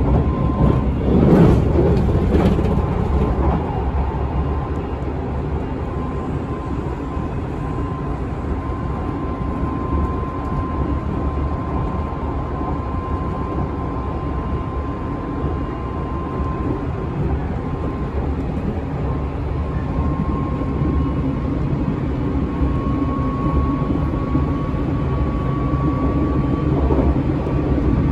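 JR Shikoku 8000 series express train (S4 set, with Toyo Denki hybrid SiC VVVF traction equipment) running at speed, heard inside the passenger car: a steady rumble of wheels and running noise with a thin steady whine that rises slightly in pitch in the second half. A louder rush comes about a second or two in.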